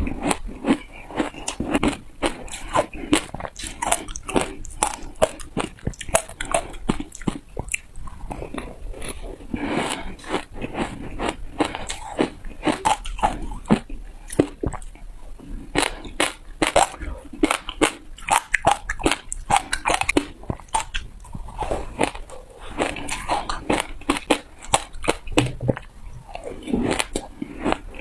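Ice being bitten and crunched between the teeth: many sharp, crackling crunches in quick succession.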